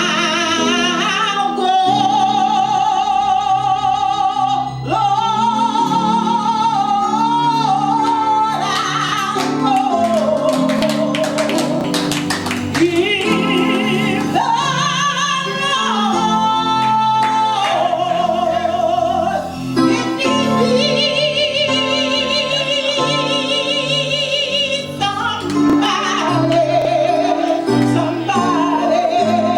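A solo singer holding long, high gospel-style notes with a wide vibrato over instrumental accompaniment.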